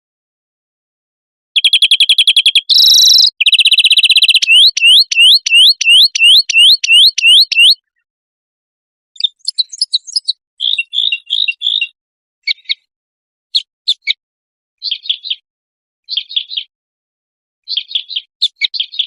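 Edited mix of songbird song recordings. It opens with a loud, fast series of pure whistled notes, then rising whistles about four a second. After a pause comes a run of short chirping phrases about once a second, each cut off into dead silence.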